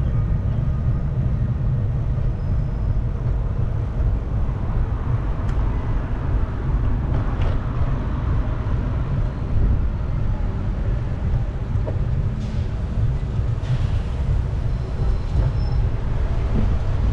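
Steady low rumble of wind buffeting the microphone while riding a bicycle, with street noise underneath.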